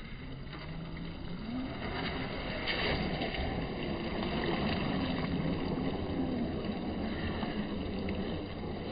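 Traxxas TRX-4 radio-controlled crawler's electric motor and gearbox whining, the pitch rising and falling with the throttle, over a steady rough rush.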